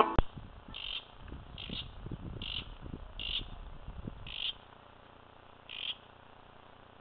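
A bird repeating a short, high call six times, about a second apart, over a low rumble that dies away about halfway through.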